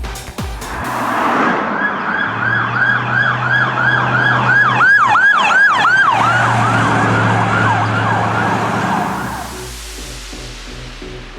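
Emergency vehicle siren in a fast yelp, each cycle a quick falling tone repeating about three times a second over a steady low hum; it swells in about a second in and fades out near the end.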